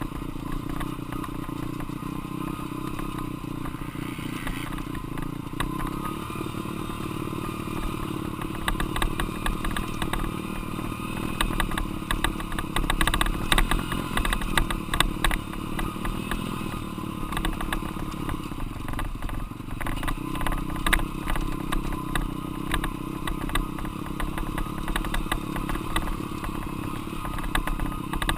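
Dirt bike engine running while riding, its pitch fairly steady, with a lot of rattling and knocking on top.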